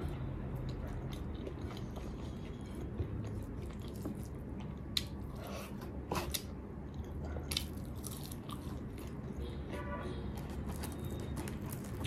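Close-miked chewing and wet mouth sounds from eating rice and dal by hand, with scattered short smacks and clicks.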